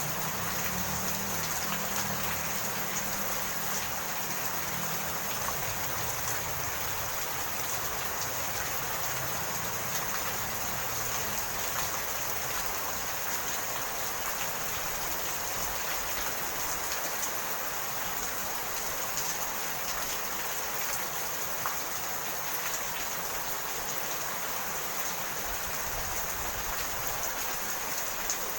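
Steady rain: a dense, even hiss with many small drop ticks scattered through it. A low rumble underneath fades away over the first several seconds.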